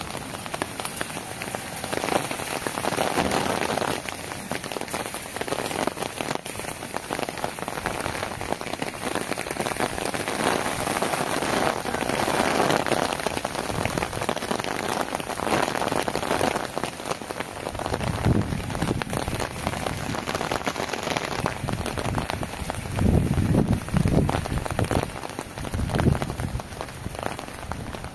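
Steady rain falling on wet ground and puddles, a dense even hiss, with a few louder, lower swells in the second half.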